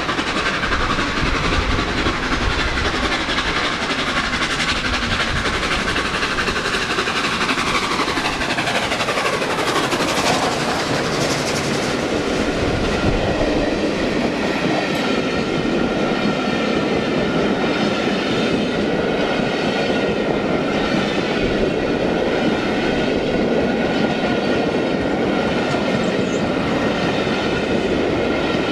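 A train running on rails and passing by, with a steady mechanical running noise; about a third of the way through, its tones slide down in pitch as it goes past, then it settles into a steady hum.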